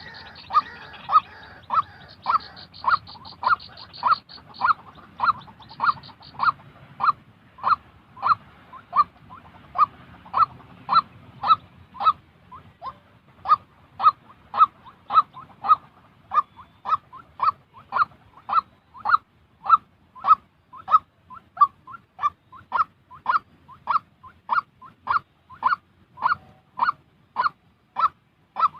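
White-breasted waterhen calling: a steady run of short, repeated notes, nearly two a second.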